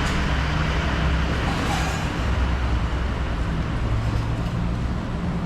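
Steady low hum of a running motor vehicle engine, with road-traffic noise.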